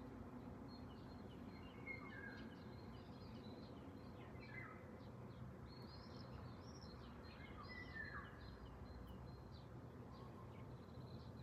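Several small songbirds chirping and singing in quick, overlapping phrases, faint and heard from a distance, over a steady low background noise.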